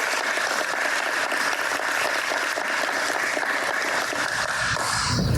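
Audience applauding steadily; the clapping cuts off suddenly near the end.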